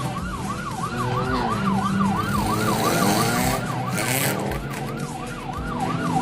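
Police car siren on yelp, wailing up and down quickly at about four cycles a second, over traffic and engine noise.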